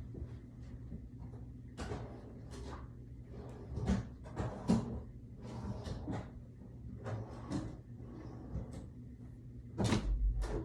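Someone rummaging for scissors in cupboards and drawers: a string of irregular knocks, clicks and rustles as doors and drawers open and shut and their contents are moved about, with a louder cluster of thumps near the end. A faint steady hum lies underneath.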